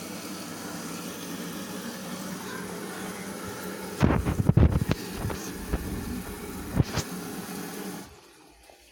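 LG WD-80155NUP front-loading washing machine running early in a cotton cycle with a steady noise. A cluster of knocks comes about four seconds in and another knock near seven seconds. The noise cuts off suddenly about eight seconds in.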